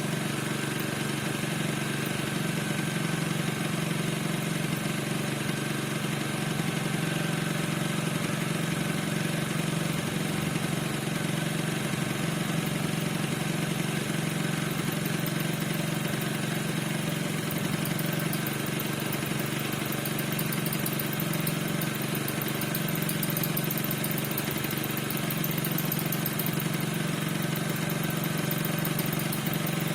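Piaggio NRG 50 scooter's 50 cc two-stroke single-cylinder engine idling steadily, with a thin steady high tone over it: the squeak whose cause the owner is trying to find.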